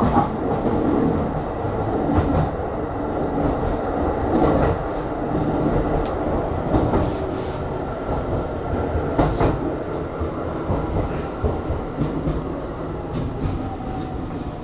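Aonami Line electric train running between stations, heard from inside the car: a steady rumble of wheels on rail with occasional clicks over rail joints and a faint motor tone sliding slowly down near the end.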